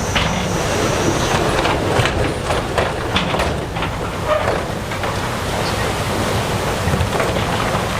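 Crawler bulldozer's diesel engine running under load with its tracks and pushed stone giving a constant irregular clatter of knocks.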